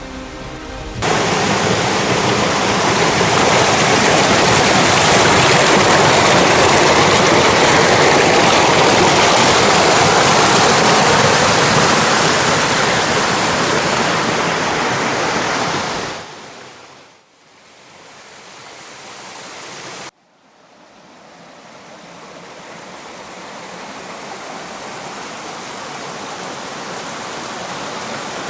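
Rushing water of a mountain waterfall and river: a loud, even noise. It fades out around 16 seconds, returns, cuts off abruptly around 20 seconds, then swells back up.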